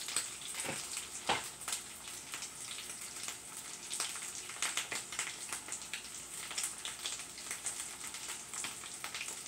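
Corned beef hash sizzling in oil in a frying pan, a steady hiss dotted with frequent small crackles and pops.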